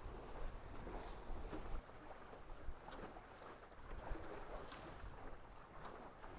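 Water rushing along the hulls of a Tornado racing catamaran sailing upwind in light wind, with uneven wind buffeting on the microphone and a few faint ticks.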